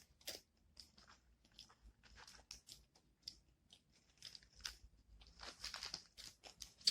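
Faint close-up chewing of a spicy fried chicken sandwich: scattered short crunches and wet mouth clicks, coming more often near the end.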